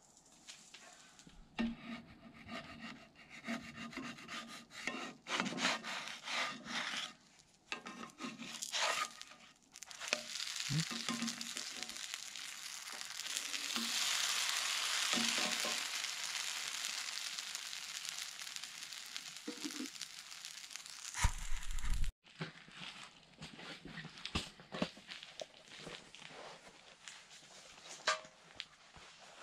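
Food frying in a cast iron skillet, a steady sizzle that builds, holds for about ten seconds and cuts off abruptly. Before it come irregular clinks and rubbing of utensils and cookware, and after it quieter scattered knocks of handling.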